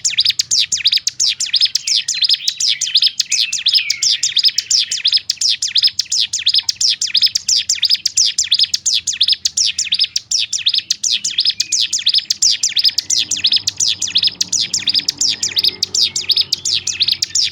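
Ciblek gunung, a prinia, singing a loud, unbroken run of rapid, sharp, closely packed notes, the dense 'tembakan ngebrem' song that bird keepers play as a masteran to stir other ciblek into singing.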